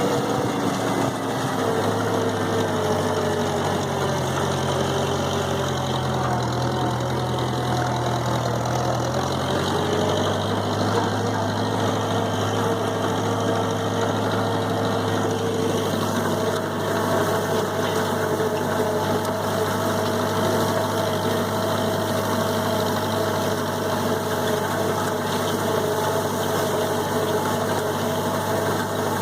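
Massey Ferguson 165 gas tractor engine running steadily while it works a hay tedder, its pitch shifting slightly about 2, 10 and 16 seconds in.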